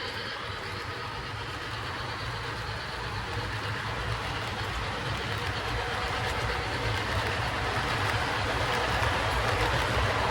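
Model train running on the layout track, a steady rumble that slowly grows louder as it comes closer.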